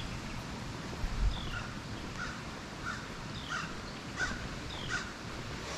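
A bird calling over and over, a short falling note about every two-thirds of a second, each answered by a lower note, over a steady outdoor rumble.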